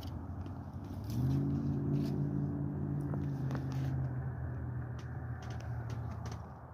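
Fallen tree trunk creaking under a person's weight: a low, steady groan that starts about a second in and fades after about five seconds, over the steady rush of a fast river current.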